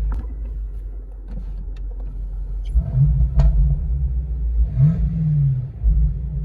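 BMW M8 Competition's twin-turbo V8 running at idle, then revved harder from about three seconds in, with a rev that rises and falls near five seconds. A few short, sharp cracks sit among the revs.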